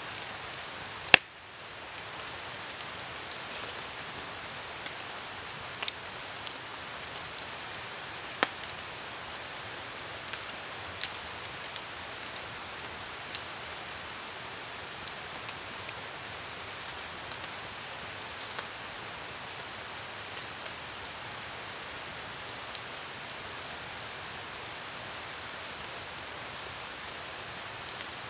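Steady rain falling in a forest, with the rush of a river underneath, and scattered sharp pops from a crackling campfire; one loud sharp snap about a second in.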